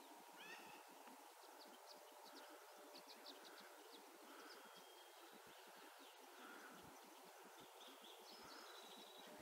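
Near silence, with faint wild birds chirping and calling: a short falling call near the start, then scattered high chirps and a soft note repeating about once a second.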